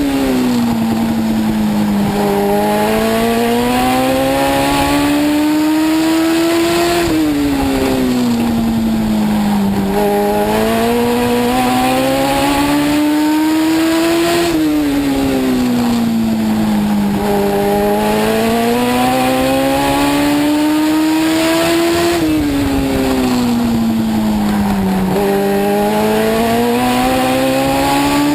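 A Legend race car's Yamaha 1200 cc four-cylinder motorcycle engine running at racing speed, heard from inside the car. Its pitch drops as the driver lifts for each turn, then climbs as the car accelerates down each straight, repeating about every seven to eight seconds.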